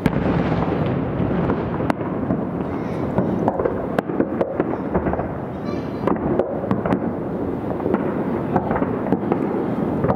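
Aerial firework shells bursting over a town: a continuous rumble of booms with many sharp cracks and bangs throughout.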